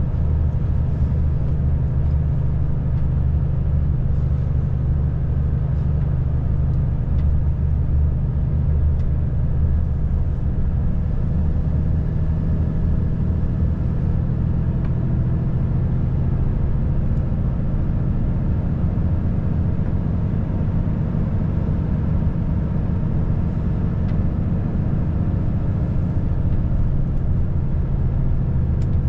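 Volvo FH540 truck's 13-litre straight-six diesel engine running steadily while driving, a constant low drone with road rumble.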